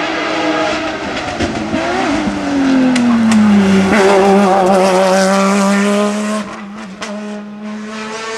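Hillclimb race car passing at full racing speed. Its engine note falls and then holds, with a few sharp cracks from the engine, and it is loudest in the middle before dropping away suddenly about six seconds in.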